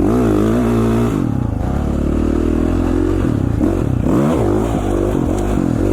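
450cc four-stroke dirt bike engine being ridden, its revs falling and rising as the throttle is rolled off and on, with a few sharp swoops in pitch.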